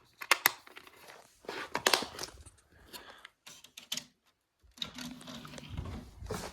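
Close handling noises: a run of sharp plastic-like clicks and crinkling rustles, then a steadier low rumble with a faint hum from a little under five seconds in.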